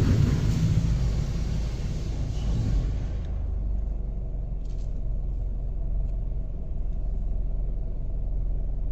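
Low steady rumble of a car creeping forward at low speed into an automatic car wash bay; a hiss above it dies away about three seconds in.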